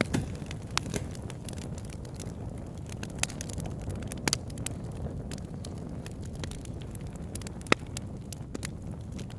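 Wood fire burning: a steady low rumble of flames with scattered sharp crackles and pops, one louder pop near the end.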